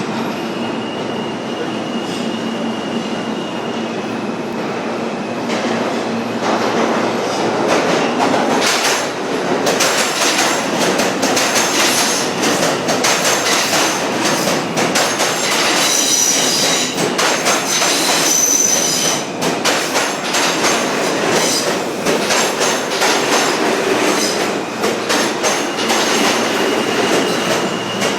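New York City subway train running through the station. It starts as a steady hum, then grows louder from about seven seconds in, with the wheels clattering over rail joints and squealing high twice in the middle.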